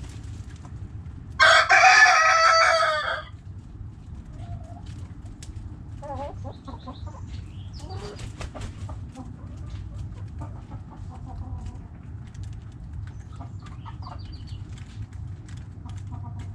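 A rooster crows once, loud and about two seconds long, a second and a half in; hens cluck softly on and off for the rest, over a steady low background rumble.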